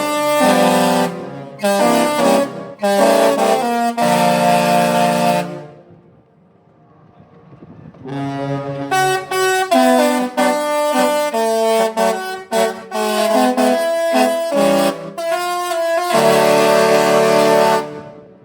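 Disney Destiny cruise ship's musical horns playing a melody of held, brassy notes: one phrase, a pause of about two seconds, then a longer phrase that stops just before the end.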